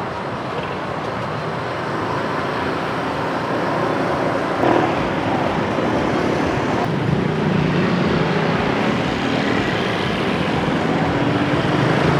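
Busy street traffic: motorbike and car engines running past in a steady stream, with one engine growing louder in the second half.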